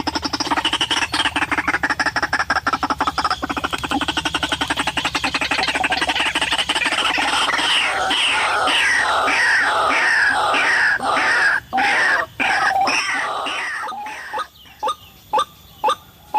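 White-breasted waterhen call: a long, loud run of rapidly pulsed notes that become a series of falling phrases, then break near the end into separate short notes about two a second.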